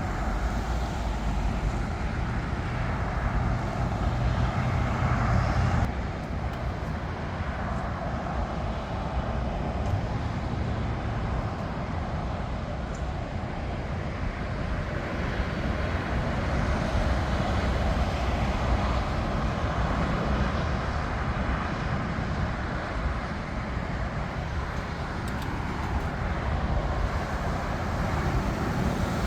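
Jet airliner engines running, a steady rumble with a noisy hiss above it; the deep rumble falls away about six seconds in, then the noise builds again.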